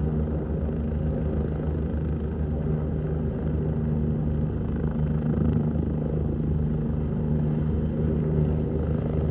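Bell 429 twin-engine helicopter running steadily, a low, even rotor and engine sound that neither rises nor fades.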